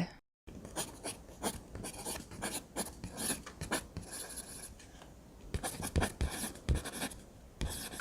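Pen strokes scratching and rubbing on paper in short, irregular strokes as a drawing is made.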